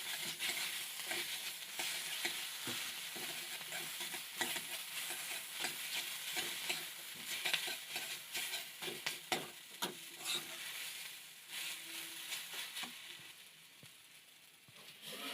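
Food frying and sizzling in a pan, stirred with a spatula that scrapes and knocks against the pan many times. The sizzle and stirring die down near the end.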